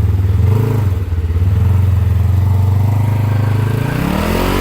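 Polaris RZR side-by-side engine running steadily. The revs blip up and down briefly about half a second in, then rise and fall again near the end as the driver works the throttle at the foot of a steep climb.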